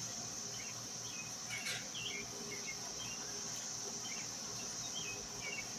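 Steady high-pitched drone of insects, with short bird chirps scattered through and a single light knock about a second and a half in.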